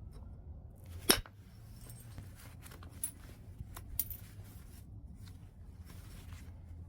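Chert being knapped: one sharp, loud strike on the stone about a second in, then two lighter clicks around three and four seconds in.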